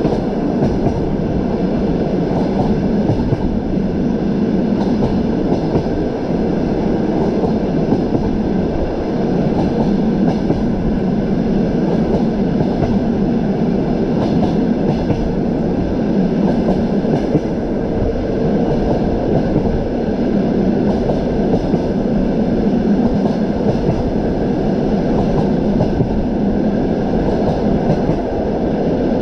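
Train wheels running on the rails at speed: a steady rumble with faint clicking from the track.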